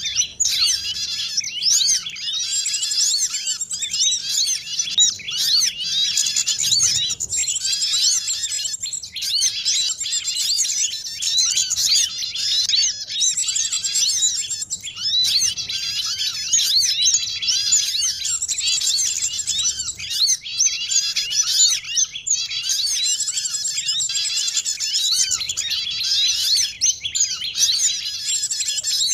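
Bird-lure recording: a dense, layered chorus of many small songbirds chirping and twittering without pause, all high-pitched.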